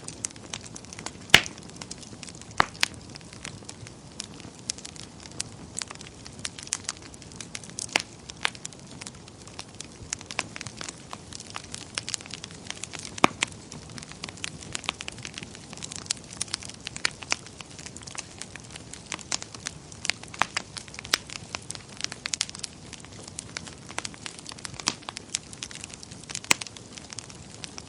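Wood fire burning in a fireplace: a low steady hiss with irregular sharp crackles and pops, a few of them louder, about a second in and near the middle.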